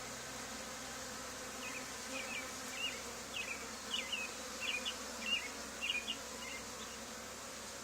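Swarm of honey bees buzzing in a steady low hum. For a few seconds in the middle, a string of short high chirps, about two a second, runs over the hum.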